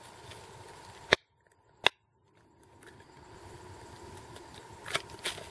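Two sharp clicks about a second apart, with the background cutting out between them, then two softer clicks near the end.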